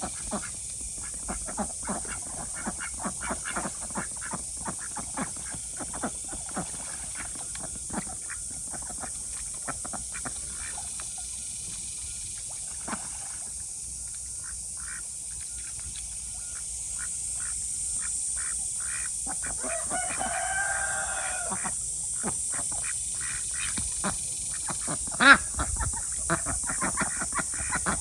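Khaki Campbell ducks calling, with a drawn-out call about 20 seconds in and many short sharp clicks and splashes throughout. A single loud sharp knock about 25 seconds in.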